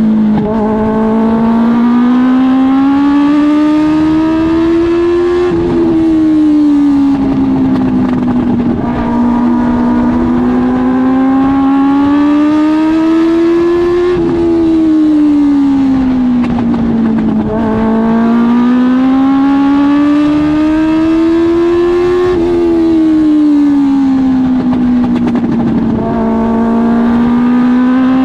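Suzuki GSX-R1000 motorcycle engine in a dwarf race car, running hard around a short oval. Its note climbs gradually along each straight, then drops and sinks through each turn, about every eight seconds. The engine is held to about half throttle by problems with the car.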